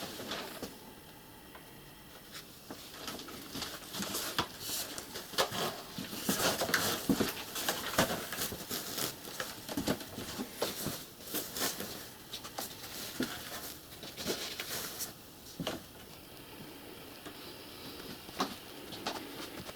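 Irregular rustling, scraping and small clicks of handwork on materials in a small room.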